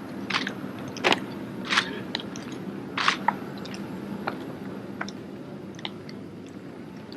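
Drill team handling their drill rifles: sharp slaps and clacks of hands and rifles striking as the pieces are caught and handled, four loud ones in the first three seconds, then lighter clicks.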